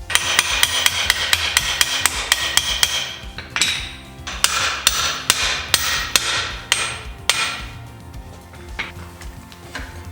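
Hammer blows on metal, fast and even at about four or five a second, each strike ringing. After a short break comes a run of more spaced-out blows that stops about seven seconds in.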